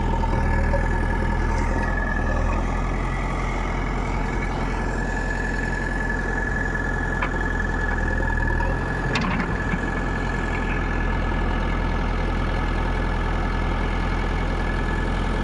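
Heavy diesel engine idling steadily with a constant high whine over it, and a couple of brief clicks about halfway through.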